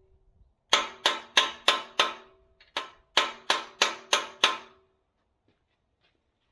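A steel hammer striking the steel pin of a backhoe bucket, driving it home: eleven sharp, ringing metal-on-metal blows, five, then a short pause, then six more, about three a second.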